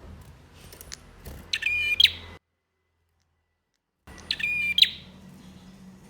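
Male prenjak (prinia) singing: two short, loud, rapid trilled phrases, broken by about a second and a half of total silence, with faint scattered chirps around them.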